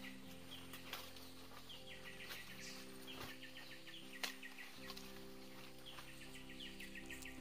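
A bird calling again and again, each call a quick run of pulsing notes stepping down in pitch, over soft sustained background music. A single sharp click a little past four seconds in.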